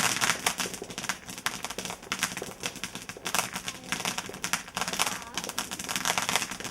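Fireworks crackling: many rapid, irregular sharp pops, densest at the start and thinning out.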